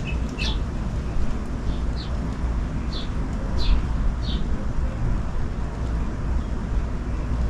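Small birds chirping in short, scattered calls, a cluster of them in the first half, over a steady low rumble.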